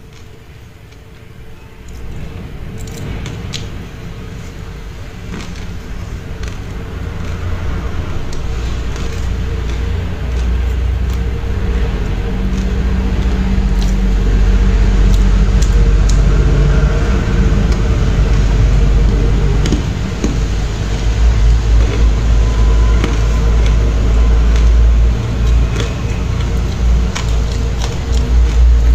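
Close-miked chewing and crunching of matcha-powdered frozen ice, with chopsticks clicking and scraping against a plastic tub. The chewing comes through as a deep, pulsing rumble that grows louder after the first couple of seconds.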